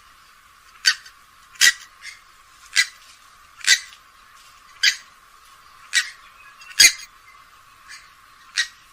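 Grey-headed swamphen calling: a series of short, sharp calls about once a second, some louder than others.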